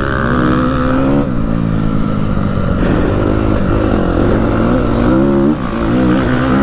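Motocross dirt bike engine revving hard, its pitch climbing and then dropping again several times as the bike accelerates and shifts or backs off.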